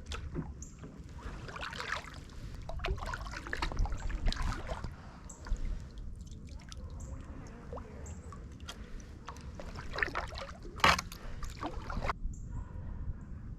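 Kayak paddle strokes dipping and splashing in the water, uneven and a few seconds apart, with one sharp, louder hit about eleven seconds in.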